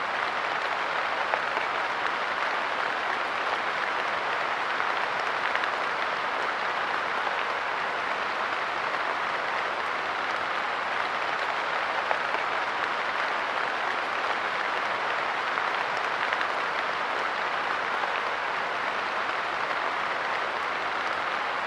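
Light rain falling steadily, a dense even patter of drops with the odd slightly louder tick.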